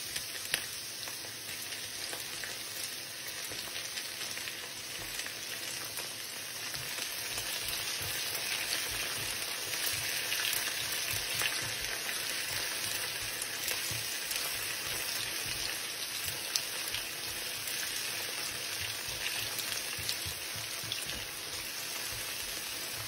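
Onion, garlic and chopped spring onions sizzling steadily as they stir-fry in a stone-coated wok, with a spatula now and then clicking and scraping against the pan.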